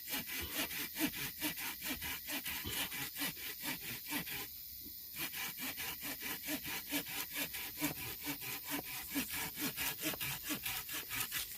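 Hand saw cutting through a limb of hop hornbeam (muscle wood), in quick, even back-and-forth strokes, with a brief pause about four and a half seconds in; the sawing stops near the end.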